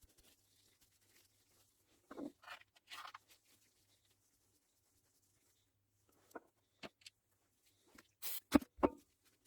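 Small parts and tools being handled on a workbench: scattered light clicks and brief scrapes, with a few sharper, louder clicks near the end.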